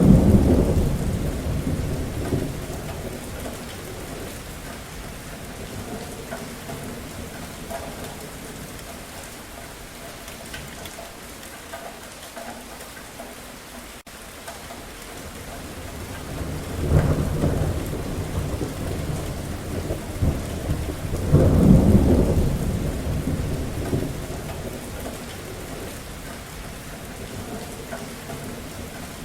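Steady rain falling, with rolls of thunder: one rumbling at the start and dying away over a few seconds, another about two-thirds of the way in, and the loudest a few seconds later, fading out slowly.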